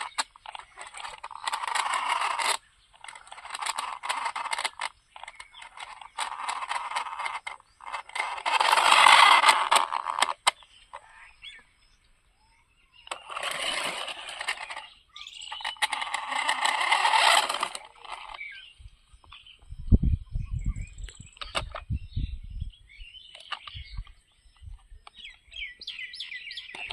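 Cheap toy RC monster truck driving in repeated runs of about two seconds with pauses between, its small motor, gears and tyres on rough ground making a noisy rush. A few deep thumps come near the middle, and small birds chirp near the end.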